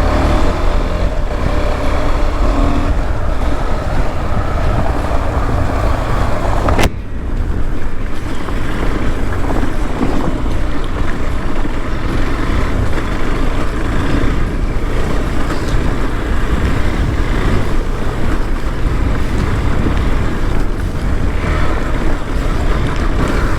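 KTM 390 Adventure's single-cylinder engine running steadily while the bike is ridden along a muddy trail. There is a sharp click about seven seconds in, and after it the sound is briefly quieter.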